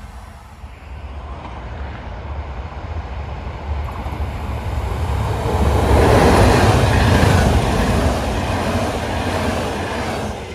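Electric locomotive-hauled passenger train approaching and passing at speed, a steady rush of wheels on rails that builds to its loudest about six seconds in and then fades.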